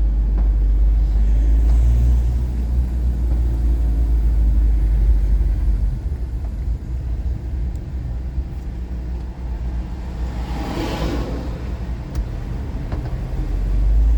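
Steady low rumble of a car travelling at a crawl, easing slightly about six seconds in. About ten seconds in, a brief whoosh swells up and fades.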